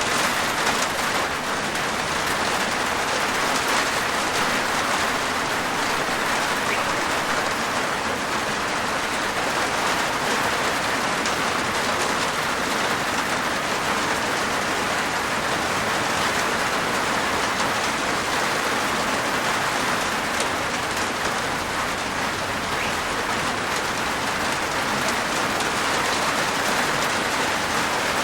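Steady rain falling on a rooftop, a dense even patter of drops.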